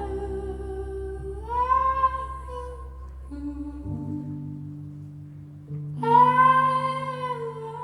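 Live band music: a woman singing two long held notes, about a second and a half in and again near the end, over sustained keyboard chords.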